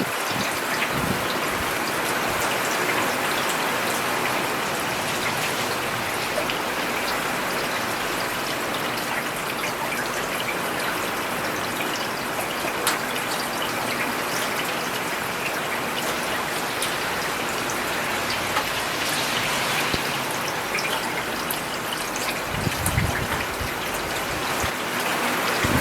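Steady rain falling on a road, an even hiss with individual drops ticking and pattering close by. Near the end a brief low rumble rises under the rain and fades.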